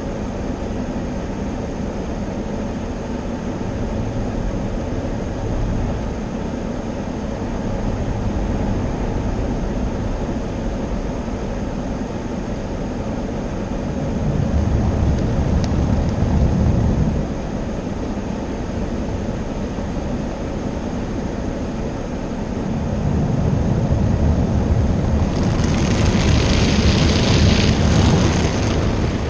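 Automatic car wash machinery running around the car: a steady low rumble that swells twice, with a hissing spray rising over it for about three seconds near the end.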